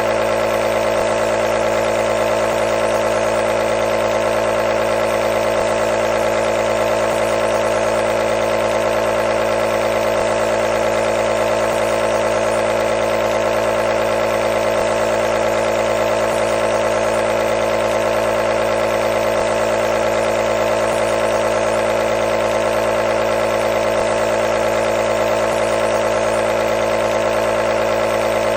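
Electric nebulizer's compressor running: a steady buzzing hum with a hiss of air, unchanging throughout.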